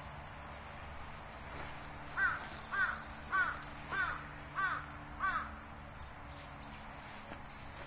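A bird calling six times in a row, the calls evenly spaced about half a second apart, starting about two seconds in.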